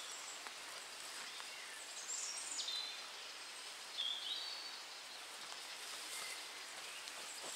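Outdoor ambience, a steady faint hiss, with a songbird singing short, high phrases about two seconds in and again about four seconds in.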